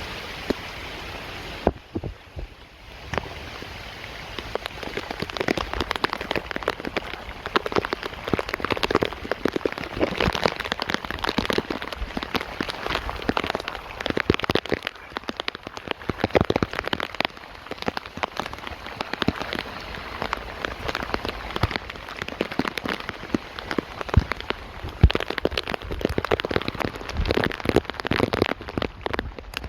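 Rain falling, with dense, irregular drop hits close to the microphone; it eases briefly about two seconds in.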